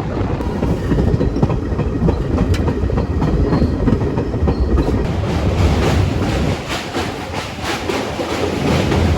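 A passenger train running on its rails: a steady, loud rumble with repeated clicks of the wheels over the track.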